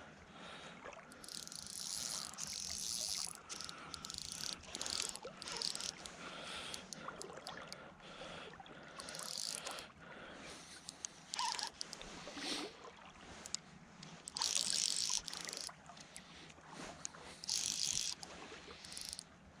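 Fly reel's click-and-pawl ratchet running in irregular bursts of rapid clicking while a small hooked fish is played and line goes out and comes back in.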